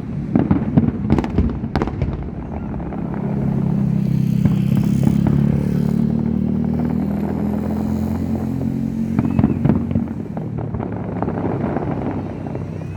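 Fireworks going off with sharp bangs and crackling, loudest in the first two seconds and again near the end. Through the middle, a motorcycle engine runs close by, rising in level and then slowly fading.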